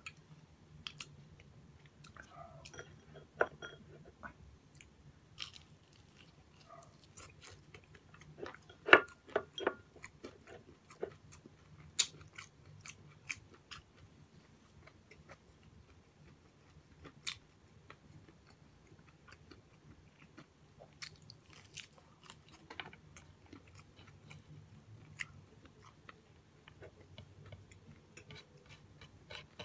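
Close-miked eating sounds: bites and crunching of a breaded fried pork chop, with chewing and mouth clicks at an irregular pace. The loudest crunches come about nine and twelve seconds in, over a faint steady low hum.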